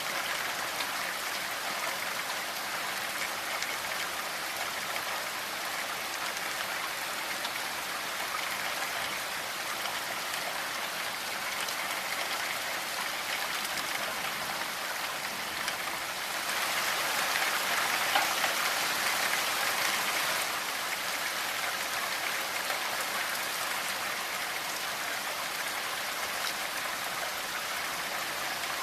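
Steady rainfall, a dense even hiss of drops, growing heavier for a few seconds past the middle before easing back.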